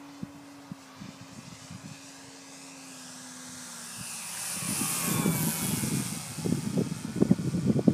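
Model airplane making a low flyby: its motor hums on one steady note that sinks slightly, then a loud rushing sound swells and peaks about five seconds in as it passes close. Gusty wind buffets the microphone from about six seconds in.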